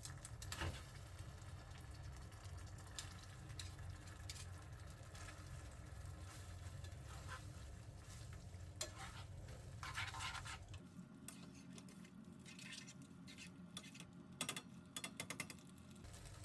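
Quiet kitchen food-preparation sounds: a utensil stirring and scraping with scattered light clicks over a low hum. The hum stops about eleven seconds in, and a quick run of clicks comes near the end.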